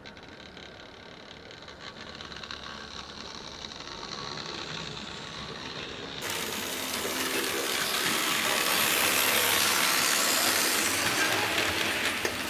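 H0-scale model train running on its track: the small electric motor and wheels give a steady mechanical rolling and clicking, growing louder over the second half as the train comes closer.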